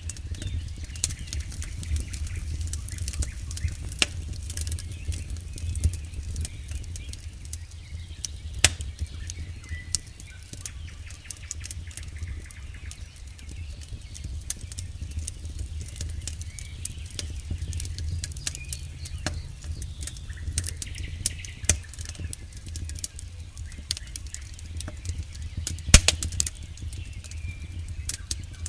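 Campfire burning, with irregular wood crackles and pops over a steady low rumble of the flames. The loudest snap comes near the end.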